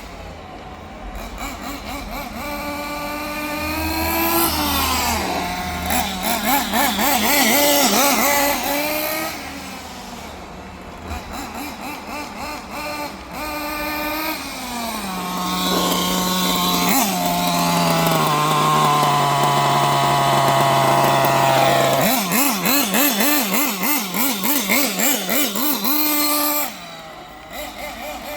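Kyosho 1/8-scale engine buggy's small nitro engine running under driving, its pitch rising and falling over and over as the throttle is worked, with fast wobbling revs in places and a sudden drop near the end.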